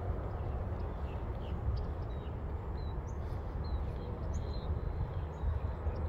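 Small birds chirping, short high calls every half second or so, over a steady low rumble.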